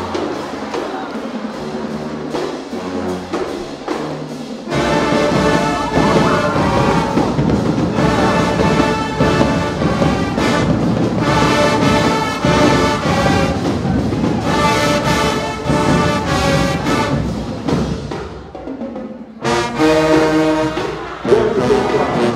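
High school marching band playing, brass over drums and percussion. The full band comes in about five seconds in, and it drops out briefly near the end before playing again.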